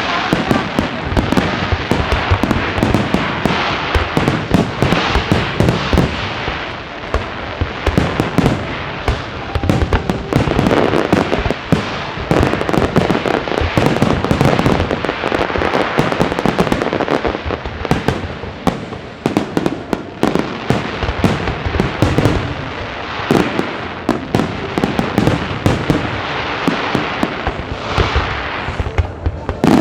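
Fireworks display going off nonstop: a dense run of bangs and crackles, with music playing underneath.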